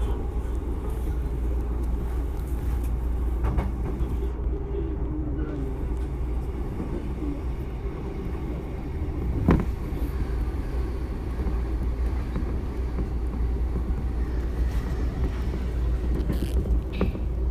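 Interior running noise of a JR East E233 series electric train: a steady low rumble of wheels on rail with motor hum. A short falling whine comes about four seconds in, and a single sharp click about nine and a half seconds in.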